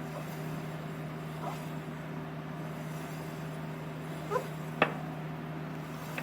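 Harley-Davidson Dyna's rear drivetrain giving one sharp click about five seconds in, and a fainter one near the end, as the bike is rolled backward in neutral. The owner suspects the way the drive belt tracks on the sprockets, since it sounds different going backwards.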